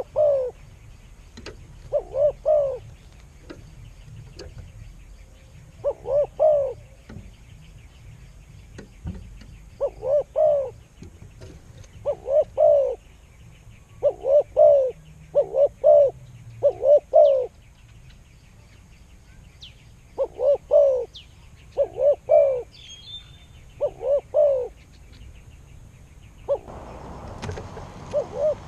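A bird calling in short, low, hooting notes, mostly in pairs or threes, repeated every second or two.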